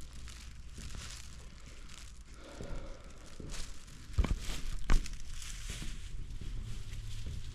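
Rustling and crinkling handling noise, with two low thumps about four and five seconds in.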